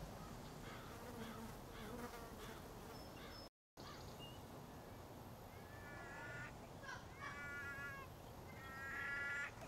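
Faint outdoor ambience with a bird calling: three short calls about a second and a half apart, starting about six seconds in. There is a brief dropout to silence a little after three seconds.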